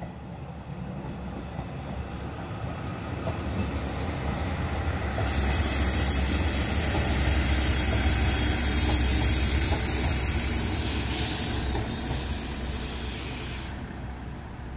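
Aizu Railway diesel railcars passing close by: a low rumble builds as the train approaches. About five seconds in, a steady high-pitched wheel squeal sets in and carries on while the cars go past. It cuts off near the end as the rumble fades away.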